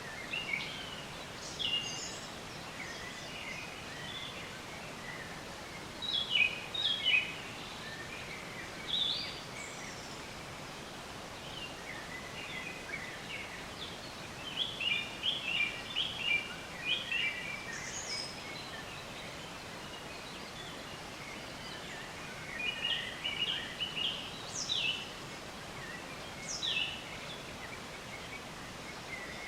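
Songbirds chirping and singing in short bursts of quick notes every few seconds, over a steady background hiss.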